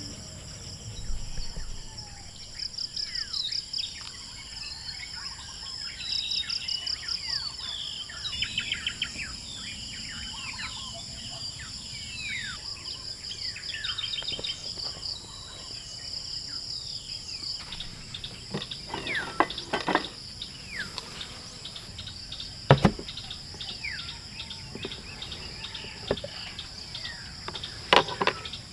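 Birds calling with many short falling whistles and bursts of rapid trills, over a steady high drone of insects. In the second half, several sharp clicks or knocks, the loudest near the end.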